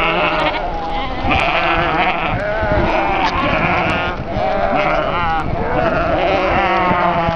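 A flock of sheep bleating, with many wavering calls overlapping one another without a pause.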